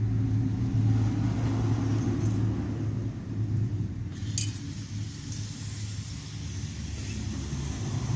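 A steady low rumble with a constant hum runs throughout, and light metallic clinks of drum-brake parts (shoes, springs and clips) being handled, the sharpest about four seconds in.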